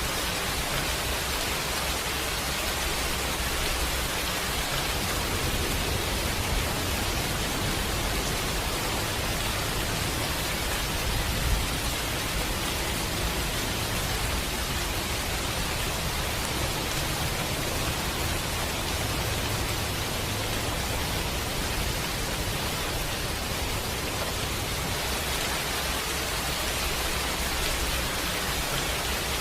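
Steady rain, a dense even hiss with a low rumble underneath. A single brief pop about eleven seconds in.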